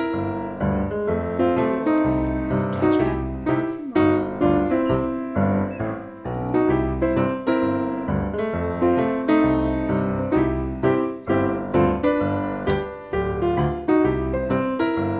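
Background piano music with a steady beat of struck notes.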